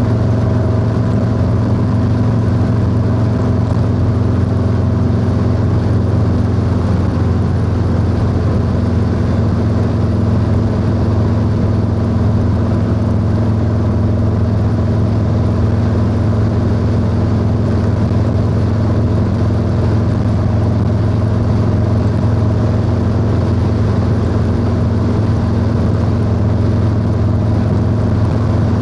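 Harley-Davidson Low Rider S V-twin engine running through a 2-into-1 exhaust at a steady cruising speed, the engine note holding even without revving up or down.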